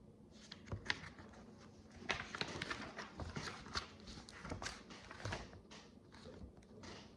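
Tiny plastic micro bricks clicking and rattling as they are handled and sifted, a dense flurry of light clicks in the middle that thins out near the end.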